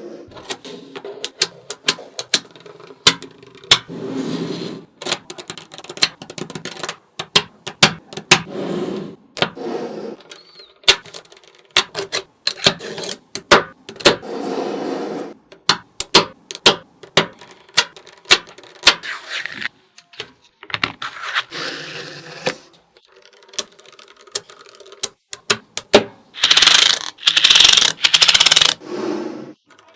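Small magnetic balls clicking and snapping together one at a time at an irregular pace, broken every few seconds by a second or two of balls rattling and sliding against each other. The longest and loudest rattle comes near the end.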